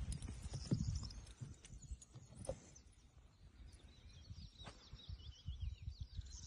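Birds chirping and singing faintly, many short calls overlapping, over uneven low rumbling.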